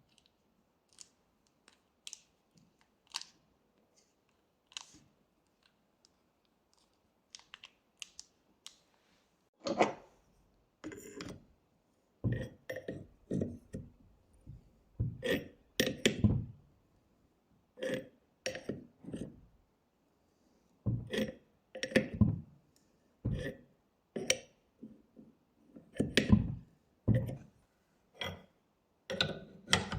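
Hand tools and metal parts handled on a workbench: a few light clicks at first, then from about a third of the way in an irregular series of knocks and clunks.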